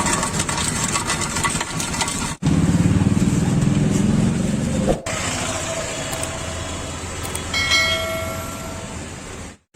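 Busy roadside street noise, with vehicle engines running and a short horn toot a little before the end. The sound cuts off abruptly twice, as between short clips.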